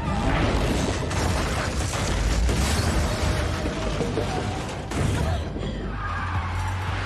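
Action-movie sound mix: dense metallic mechanical crashing over a heavy low rumble, with sharp hits about a second in and near five seconds, and music underneath.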